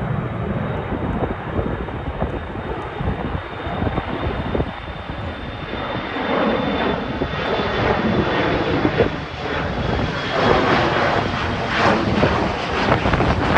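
Embraer E175 jet at takeoff power, its two GE CF34 turbofan engines giving a steady roar with a faint high whine, the roar growing louder about six seconds in.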